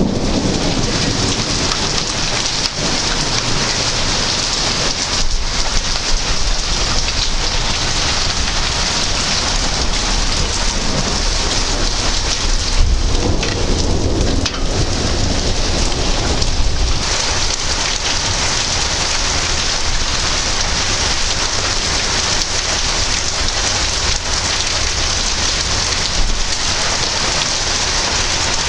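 Heavy rain falling steadily during a thunderstorm, with low rumbles of thunder that swell about halfway through.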